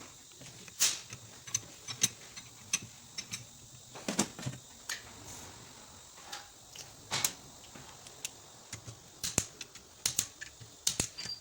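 Irregular metallic clicks, taps and clinks of hand tools and engine parts being handled during engine assembly, with a dozen or so sharp knocks at uneven intervals.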